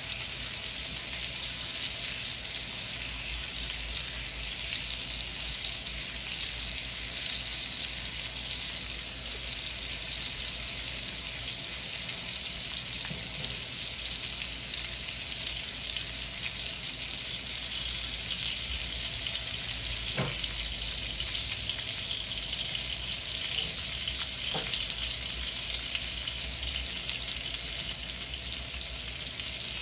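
Onion slices and garlic cloves sizzling steadily in oil on a hot ridged grill pan. Two light knocks come past the middle, about four seconds apart.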